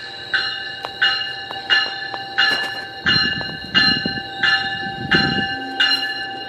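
A warning bell ringing steadily, about one and a half strokes a second, over a train's low running rumble that swells about halfway through.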